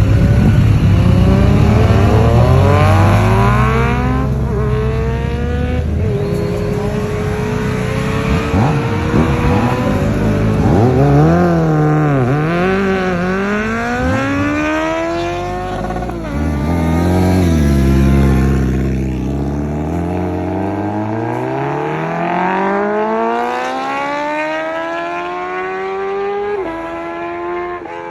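Superbike engine accelerating hard through the gears. The pitch climbs steadily, drops sharply at each shift, and climbs again several times, with one long rising pull late on that levels off near the end.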